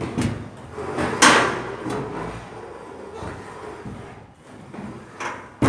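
Knocks and clattering of household objects being handled, the loudest bang about a second in and another sharp knock near the end.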